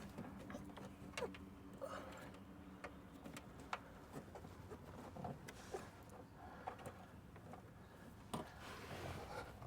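Faint, scattered light clicks and taps of hands handling the camera wiring and plastic interior trim, with a faint steady low hum during the first few seconds.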